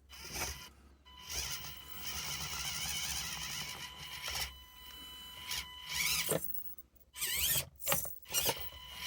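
Axial SCX24 mini crawler's small electric motor and gears whining in short spurts as it is driven over a plastic obstacle, with a few sharp clicks near the end.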